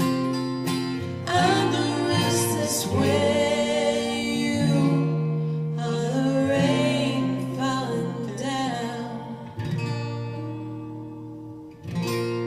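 Acoustic guitar chords with a voice singing long held notes, and a fresh strum near the end.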